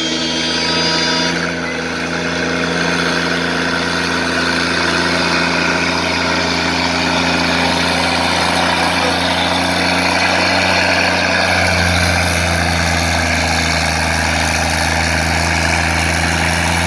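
Propane-fuelled Minneapolis Moline G6 tractor engine running at a steady pitch under load during a pull. The engine drops away suddenly at the very end.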